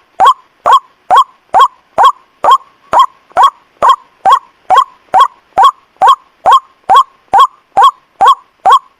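White-breasted waterhen (ruak-ruak) calls played as a bird-lure recording: a short, falling 'kwak' note repeated evenly, about two to three times a second.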